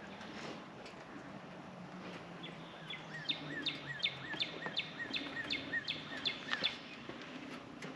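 A bird singing a quick run of about ten identical sharp chirps, roughly three a second, starting a couple of seconds in and stopping near the end, over faint outdoor background noise.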